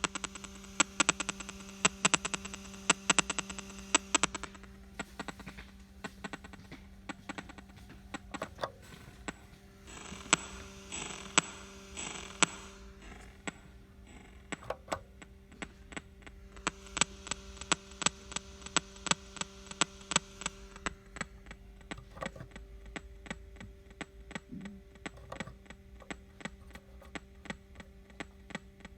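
DOD TEC 4X guitar preamp/effects processor putting out operating noise: a steady electrical hum under a stream of irregular crackling clicks and pops, with bursts of hiss that come and go three times. This noise is the fault being shown on the unit.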